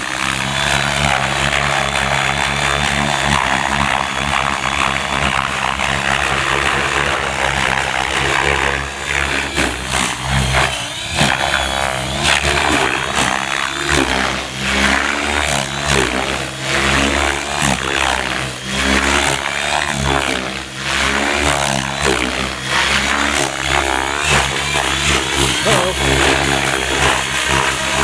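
Gaui X7 electric RC helicopter flying 3D aerobatics at high head speed: a steady rotor and motor whine, with the blade noise swelling and dipping briefly again and again as the manoeuvres load the rotor.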